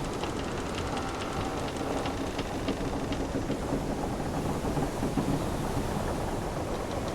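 Wooden sailing-ship ambience: ship timbers creaking in long, drawn-out groans over a steady wash of ocean and a low rumble, with a run of fine ticking in the first few seconds.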